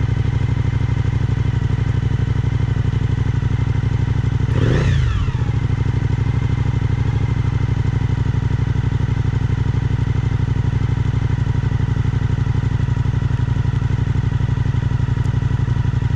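Suzuki V-Strom 1050XT's V-twin engine running steadily at cruising speed. About five seconds in, a brief louder whoosh with a falling pitch passes over it.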